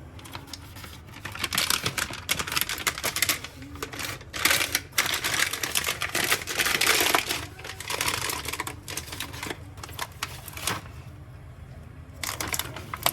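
Rapid, irregular clicking and rustling in dense bursts, like small hard items and packaging being handled, with a brief lull near the end.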